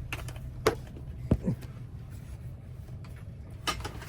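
Several sharp clicks and taps as a key is set up on a key-cutting machine, over a steady low hum. The clicks come about two-thirds of a second in, twice more around a second and a half, and again in a quick cluster near the end.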